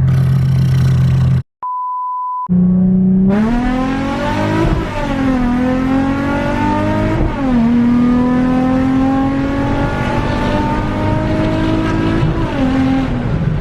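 Nissan 350Z's V6 with a loud aftermarket exhaust accelerating hard under full throttle, its pitch climbing and dropping at each upshift: two quick shifts, then a long pull before a third. Near the start the engine sound cuts out for a moment and a steady electronic beep sounds for about a second.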